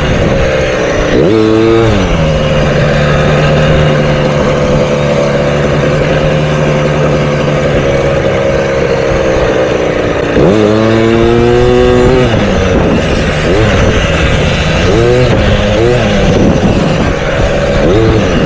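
Motocross bike engine running hard: it drops in pitch about a second in, holds a steady pitch for about eight seconds, then revs up sharply. Near the end come several quick rises and falls in pitch as the throttle is worked.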